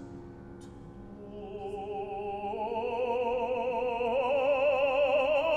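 Operatic singing: a voice sustains a long note with wide vibrato that climbs in pitch and swells louder from about a second in, over held accompaniment tones.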